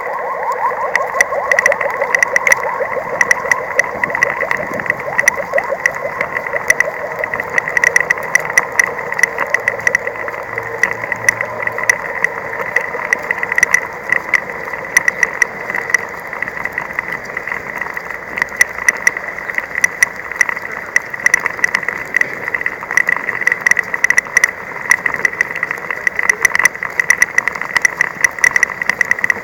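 An engine running steadily, with a pitched drone strongest in the first several seconds, under a constant high, irregular clicking and ticking.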